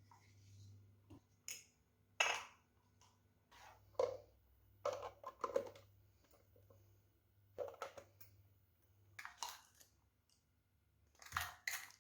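Irregular clicks, knocks and short scrapes of objects being handled, over a faint low steady hum.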